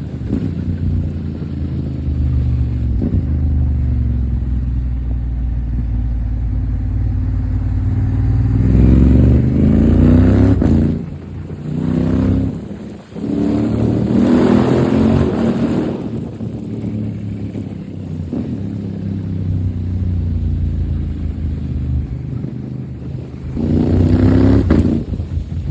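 Honda Africa Twin 1100's parallel-twin engine with an Akrapovic exhaust, heard from the bike under way. It cruises steadily, then rises in pitch under acceleration twice in the middle, with sharp dips as the throttle shuts between gears, and rises again near the end.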